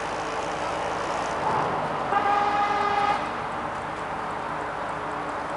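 A vehicle horn gives one steady honk about a second long, a couple of seconds in, over continuous engine and traffic noise.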